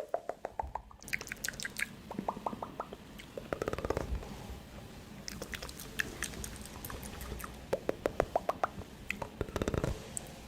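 Street-food preparation sounds: repeated runs of quick, sharp taps and clicks, with the loudest run about eight seconds in at about seven taps a second.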